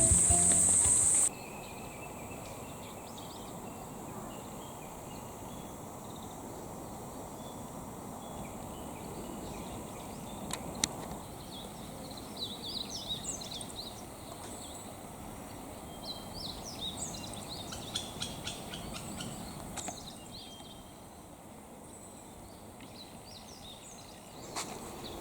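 Outdoor ambience: a faint steady background with a thin high insect tone, and a run of short bird chirps in the middle. About a second in, music and a loud high trill cut off abruptly.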